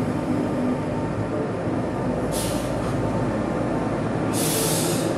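An RER B electric train of MI79/MI84 stock standing at an underground platform, humming steadily. There are short sharp hisses of released air about two and a half seconds in and again near the end.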